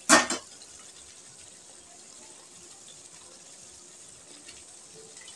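A short loud noisy burst right at the start, then a kadai of mutton and potato curry sizzling softly with a steady low hiss.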